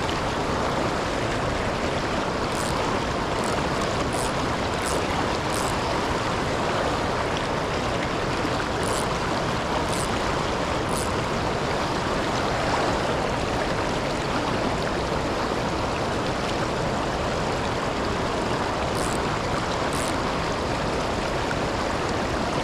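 The Milwaukee River rushing steadily over and below the Kletzsch waterfall, a continuous even roar of moving water. A few short, high-pitched ticks stand out over it, several in the first few seconds, a few near the middle, and two near the end.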